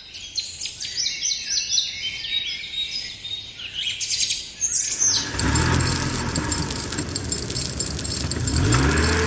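Birds chirping for about five seconds. Then a loud, steady vehicle-engine-like rumble with hiss sets in, its pitch rising near the end.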